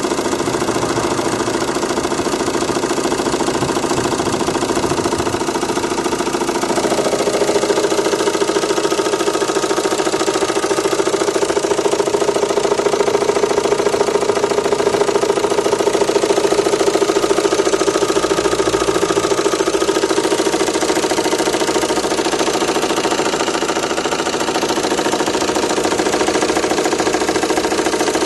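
Renault Mégane II 1.9 dCi four-cylinder turbodiesel running with a knock at idle. About seven seconds in its speed rises a little, and it settles back near the end. The owner says the knock shows at idle and goes away when the revs are raised, along with a slight vibration.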